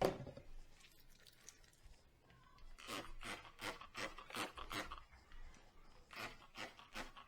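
Scrubbing strokes on a dish during hand dishwashing, about four a second, in two runs with a pause between, after a single knock of crockery at the start.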